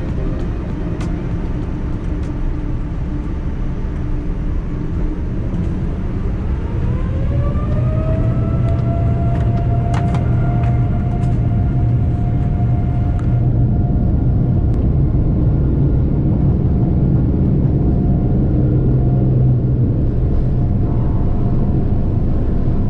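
Boeing 787-9 jet engines spooling up to takeoff power, heard from inside the cabin: a whine rises in pitch about six seconds in and then holds steady over a deep rumble that grows louder through the takeoff roll. A few sharp clicks come about ten seconds in.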